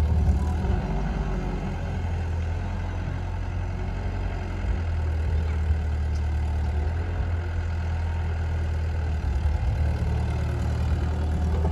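Heavy diesel engine running steadily at low revs, a deep, even hum.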